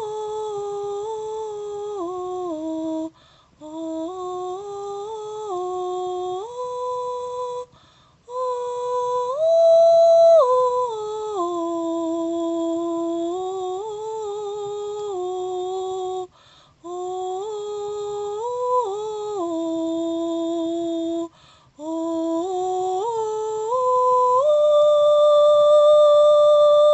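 A high voice humming a wordless, slow melody, as 'light language' toning. It holds notes and steps between them in phrases, with short breaths between. It ends on one long held note.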